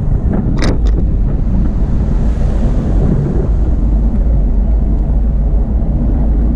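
Wind buffeting the microphone of a camera carried on a moving bicycle, a loud, steady low rumble, with one short click a little over half a second in.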